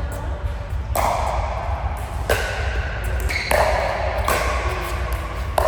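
A rally of ball hits off rackets or paddles: about five sharp, ringing strikes roughly a second apart, over a steady low hum in a large hall.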